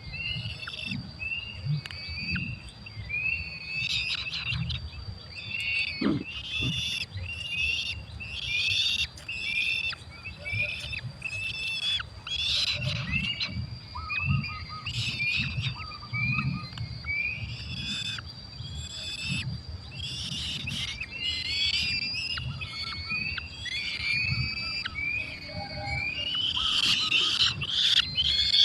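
Falcon nestlings calling in a nest: many short, high-pitched cheeps in quick, overlapping succession, busiest near the end, over a steady thin high tone.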